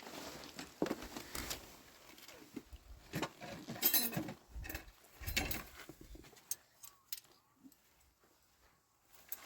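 Irregular clinks, knocks and rustling, with a few duller thumps about halfway through.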